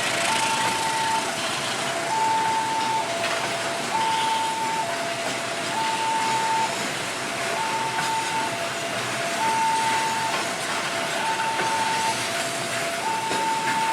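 Level-crossing warning alarm sounding two alternating tones, high then low, each held just under a second, over the steady rumble and clatter of container freight wagons rolling past on the track.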